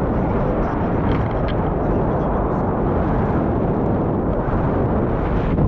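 Strong wind buffeting the microphone in a steady, loud rush while parasailing over the sea.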